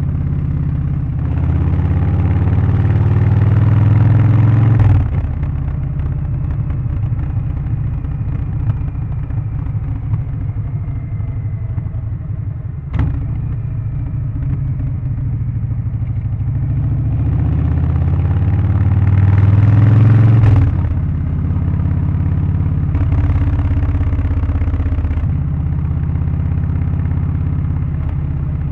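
Harley-Davidson Low Rider ST's Milwaukee-Eight 117 V-twin, with Stage 1 tune, exhaust and air filter, under way: it pulls hard twice, each pull building for a few seconds and then cutting off abruptly as the throttle closes, with steady running between and after. A single sharp click comes about halfway through.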